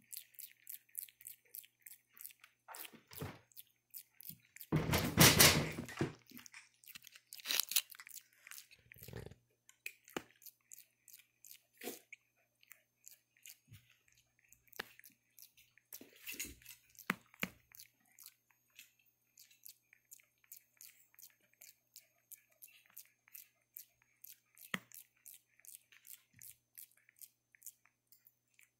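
Wet, close-up chewing-like mouth clicks, repeating about two or three times a second, with a louder burst of noise lasting about a second about five seconds in.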